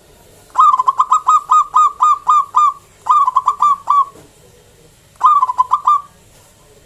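Zebra dove (perkutut) calling loudly: three phrases of quick, repeated cooing notes, the first the longest, the last the shortest.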